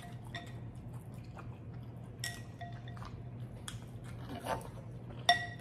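Mouth-close chewing of ramen noodles and chewy rice cakes, with a few light clinks of chopsticks against a glass bowl.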